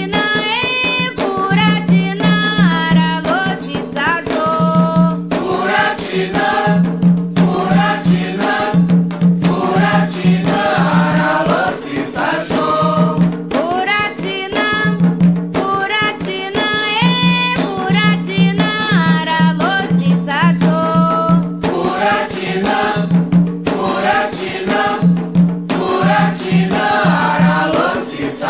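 Candomblé cantiga for Xangô sung in Yoruba by a group of voices over steady, driving percussion of hand drums and a struck rattle or bell.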